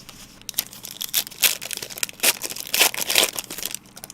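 Plastic trading-card pack wrapper crinkling and tearing, a quick run of irregular crackles.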